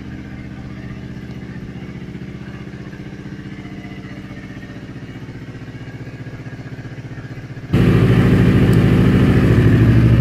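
2010 Kawasaki Ninja 250's parallel-twin engine idling steadily through an aftermarket sport exhaust. About three-quarters of the way in the sound jumps suddenly to a much louder, fuller idle that then holds steady.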